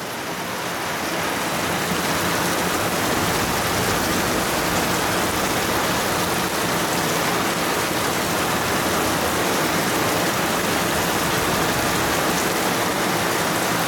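Rain falling steadily during a thunderstorm, an even hiss of heavy downpour with no breaks.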